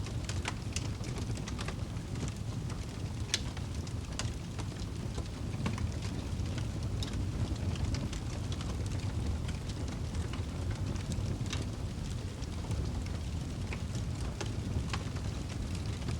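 Wood fire burning in a fireplace: a steady low rumble and hiss with irregular sharp crackles and pops.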